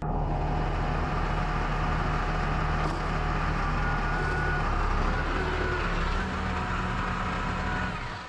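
Yanmar VIO50 mini excavator's diesel engine running steadily under work, its low note shifting slightly about halfway through, with a fainter higher whine over it.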